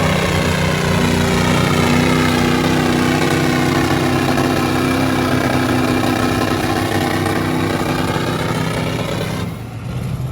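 Lifted truck engines held at high revs under heavy load, a dense steady engine note that drops off sharply near the end.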